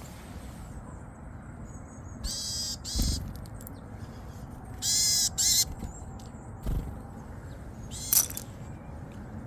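A bird giving three short, harsh calls, two of them close together about halfway through, with a few dull knocks in between.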